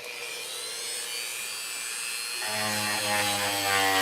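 Small handheld rotary tool running at speed with a steady high whine, trimming material so a piece sits flush; about two and a half seconds in a lower buzz joins it as the bit bears on the work.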